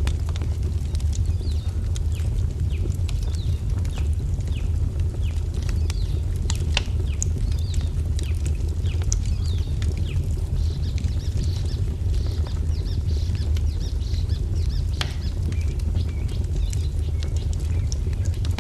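Fire crackling with sharp irregular pops over a steady low rumble, while small birds chirp in quick short notes, busiest in the second half.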